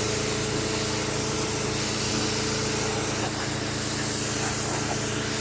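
Water spraying steadily from a hose nozzle as a motorcycle is rinsed, with a steady motor hum underneath.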